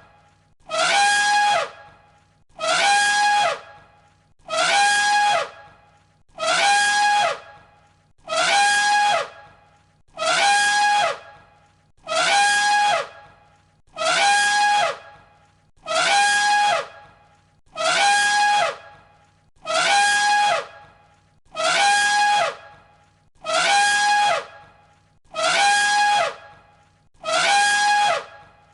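Elephant trumpeting: the same short call repeated as a loop, about one call every two seconds. Each call lasts about a second, a high held note with a falling sweep.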